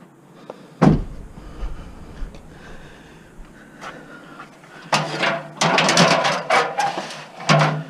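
Scrap metal being shifted around inside a van: one sharp knock about a second in, then a loud run of clattering knocks and rattles for the last few seconds.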